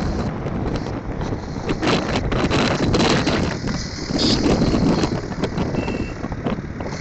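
Wind buffeting the microphone over the running noise of a motorcycle riding through street traffic.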